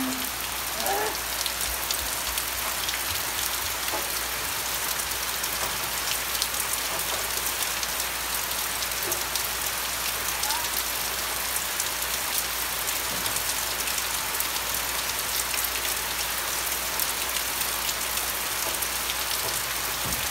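Heavy rain falling steadily, a dense even hiss full of small drop ticks.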